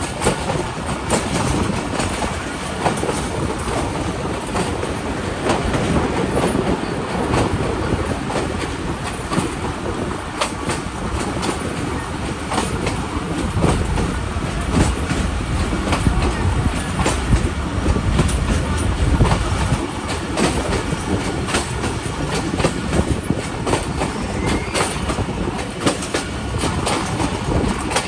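Passenger train coaches running along the track, heard from an open coach window: a steady rumble with frequent wheel clicks and clatter over the rail joints. The low rumble grows heavier about halfway through, then eases.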